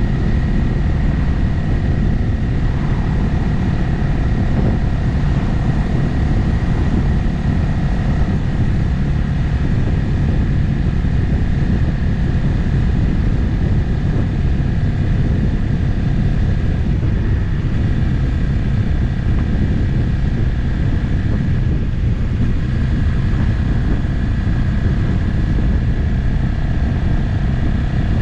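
Motorcycle cruising at a steady speed on an open road, its engine note holding steady over a constant low rumble of road noise, with a slight change in pitch about two-thirds of the way through.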